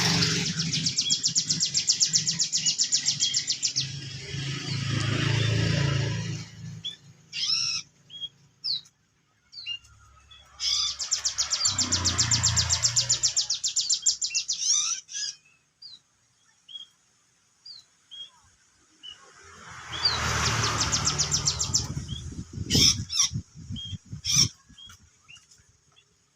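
A songbird singing in three long bouts of very fast, high trilling, with single short chirps in the pauses between. A low rumble runs under each trilling bout.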